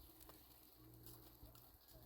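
Near silence: faint background with a low hum and a few soft clicks.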